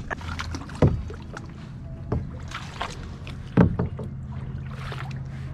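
Kayak paddle strokes: paddle blades splashing in the water, with a few sharp knocks, the loudest about a second in and again past the middle, as a beginner struggles to paddle.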